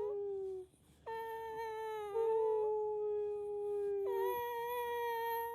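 A dog whining in long, drawn-out cries, about three in a row, each held at a fairly steady pitch for one to three seconds, the middle one stepping up in pitch partway through.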